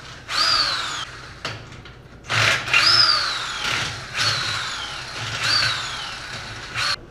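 Impact wrench run in about five short bursts, each ending in a falling whine as the tool spins down, loosening bolts on a 350 small-block Chevy being torn down.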